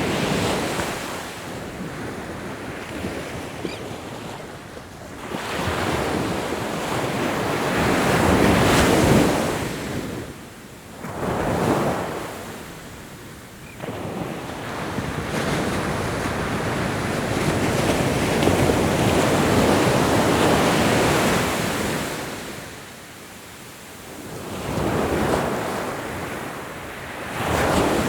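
Ocean waves breaking and washing up the shore, rising and falling back every few seconds, with one long loud surge near the middle.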